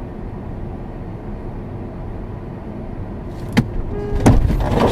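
Steady rumble of a car driving, then a sharp knock about three and a half seconds in, followed near the end by a loud burst of crashing impacts: a vehicle collision.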